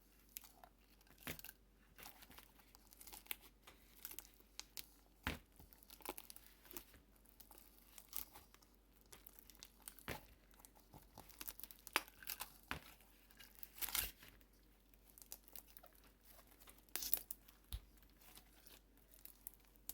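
Homemade glue slime being stretched, squeezed and pressed against a bowl, giving irregular sticky clicks, crackles and small pops.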